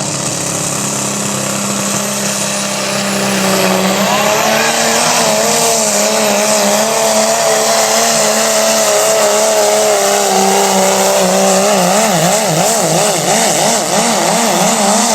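Diesel pickup truck pulling the sled at full throttle, with the turbo's high whistle rising over the first few seconds. The engine climbs in pitch about four seconds in and holds high, then its pitch wavers rapidly up and down through the last few seconds of the pull.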